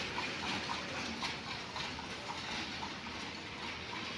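Horse hooves clip-clopping at a steady walk on the street, with street noise around them.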